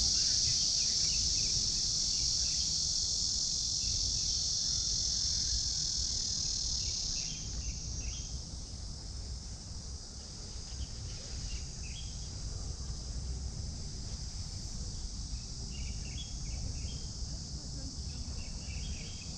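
A chorus of insects buzzing steadily at a high pitch, loud at first and dropping off suddenly about seven seconds in to a quieter buzz, with short bird chirps scattered through.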